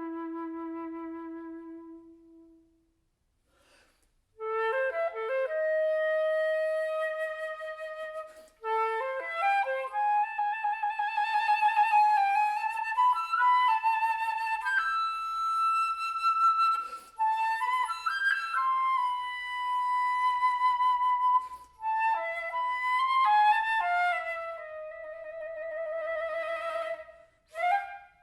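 Flute playing: a held low note fades away, then after a pause of about two seconds the melody resumes in phrases with wavering vibrato, quick runs and high held notes, broken by short breaths.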